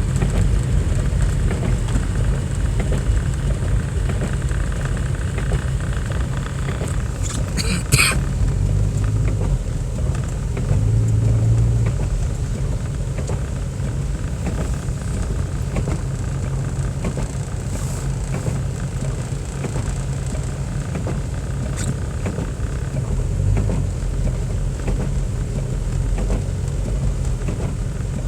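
Steady low rumble of a car driving, engine and road noise heard from inside the cabin, with a sharp clack about eight seconds in.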